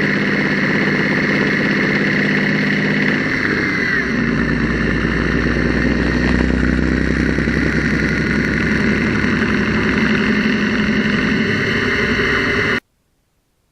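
Engine running, with a deeper rumble coming in about four seconds in as the speed or load changes. This is the engine whose intermittent noise the owner suspects comes from the mechanical fuel pump or a weak valve spring. The sound cuts off abruptly near the end.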